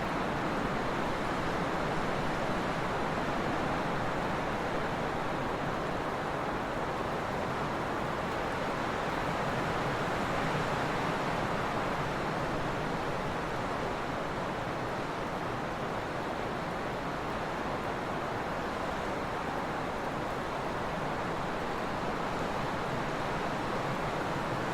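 Trade wind blowing steadily: a continuous, even rushing noise with no gusts or breaks.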